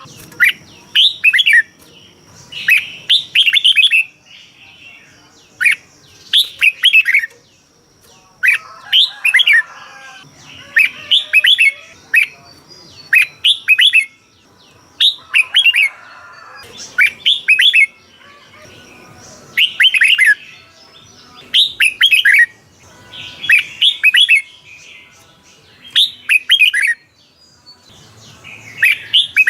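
Red-whiskered bulbul singing loud, short phrases of quick liquid notes, repeated about every two seconds with brief pauses between.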